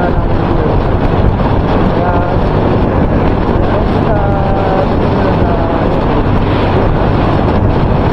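Loud, steady wind noise buffeting a microphone that has been wrapped in electrical tape; the tape has not cut it down. A few short, faint pitched sounds come through the noise about two seconds and four seconds in.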